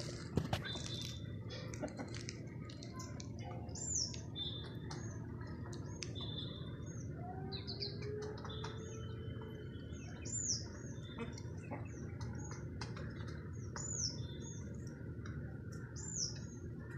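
Birds chirping: short, high chirps that rise and fall in pitch, repeating every second or few seconds, with brief thin whistles among them. A steady low background noise runs underneath.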